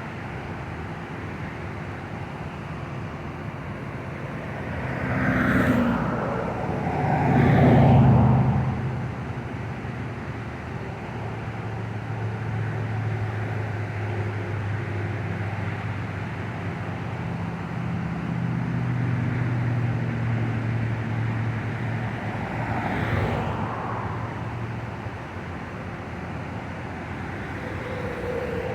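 Road traffic: vehicles passing by, two of them swelling and fading with a falling pitch about 6 and 23 seconds in, over a steady low hum and noise.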